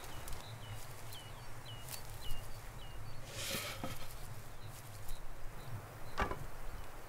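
A small bird chirping a quick series of short notes, about two a second, over outdoor ambience. A brief rustle comes about halfway, and a single knock a little before the end.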